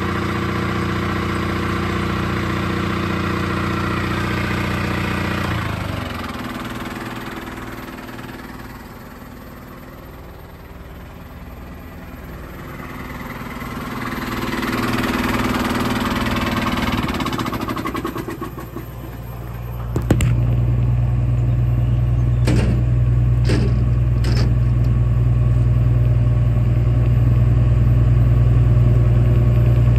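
Engine running steadily, then slowing and fading about six seconds in, swelling briefly again, and about twenty seconds in an engine catches and runs steadily, lower and louder, with a few sharp clicks soon after.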